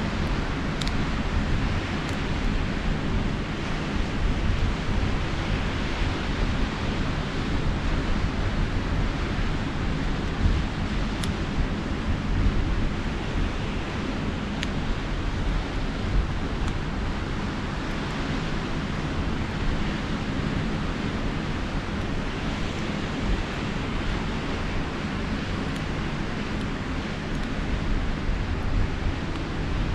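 Steady wash of sea surf and wind, with a few sharp crackles from a campfire scattered through.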